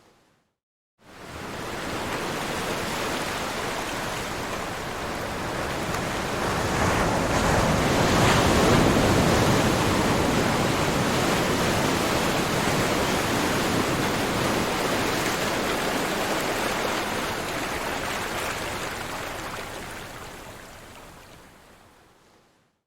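Ocean waves: a steady rush of surf that fades in about a second in, swells to its loudest about eight seconds in, then slowly recedes and fades out near the end.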